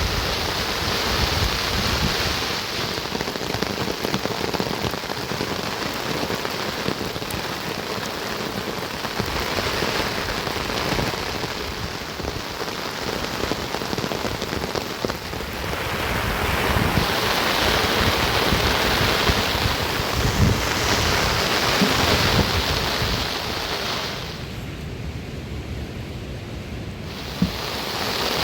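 Heavy rain pouring, loudest in the middle. For a few seconds near the end the sound turns duller, losing its hiss, then comes back.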